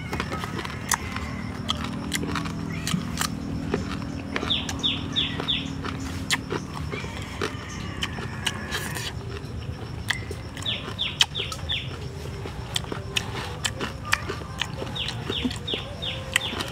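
Close-up eating sounds: crunchy chewing and bone-cracking clicks from crispy fried whole frogs. Three times a short quick run of four or five high falling chirps from an animal call rises above it.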